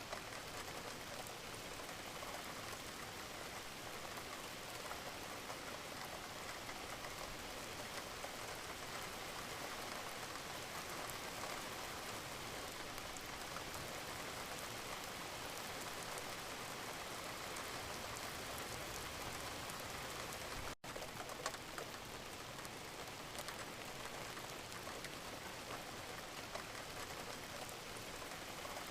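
Steady gentle rain falling, a constant even patter and hiss. About two-thirds of the way through it cuts out for a split second and comes straight back.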